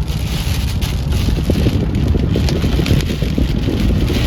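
Steady low rumble of a car on the move, with wind noise over it.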